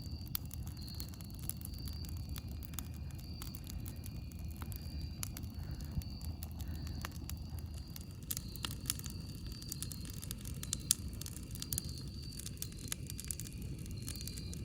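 Campfire crackling: irregular sharp pops and snaps of burning wood, thicker after about halfway, over a steady low rumble. A faint high chirping pulses on and off behind it.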